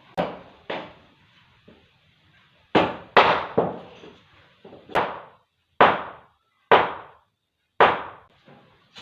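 Sharp knocks on wooden door fittings, about nine at uneven intervals, each dying away quickly.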